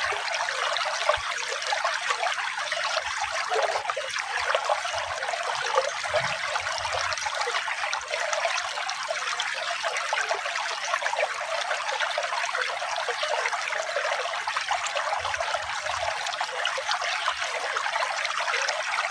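Flowing water trickling and splashing steadily, a continuous even rush with no music over it.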